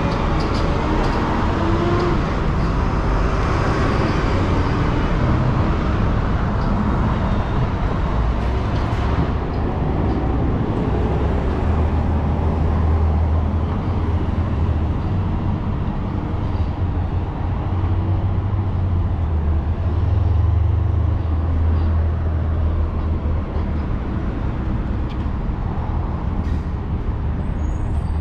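City street traffic, with a heavy vehicle's engine rumbling low from about ten seconds in until near the end.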